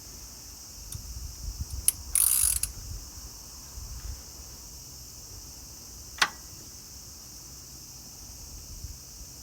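Hand-tool work on an engine: a short, loud ratchet-like rattle about two seconds in, a few small metallic clicks, and one sharp click a little after six seconds.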